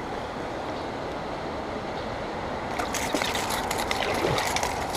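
Creek water running steadily, with a flurry of sharp splashes and clicks starting about three seconds in.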